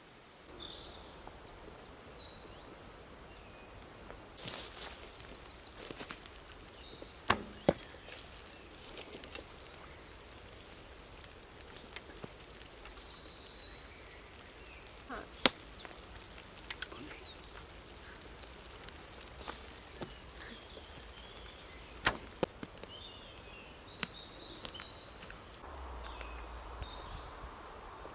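Songbirds chirping and trilling in spring woodland, with several sharp knocks several seconds apart.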